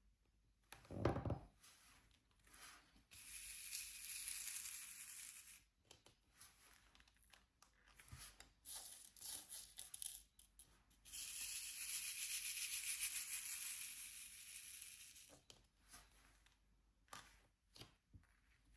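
Protective plastic film being peeled back from a diamond painting canvas's sticky surface, in two long stretches of tearing hiss, with light clicks and taps of the drill pen and tray between. One dull thump about a second in.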